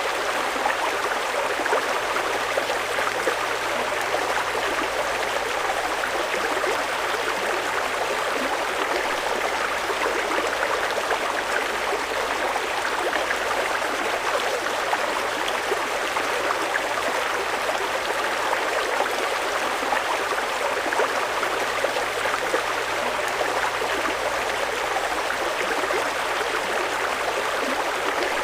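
Fast-flowing mountain river rushing steadily over rocks: a continuous splashing, gurgling rush with no pauses.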